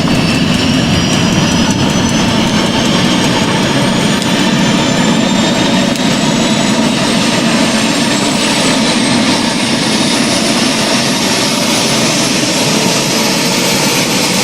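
Aircraft turbine engine sound effect: a steady roar with a whine rising slowly in pitch, as in a jet engine spooling up.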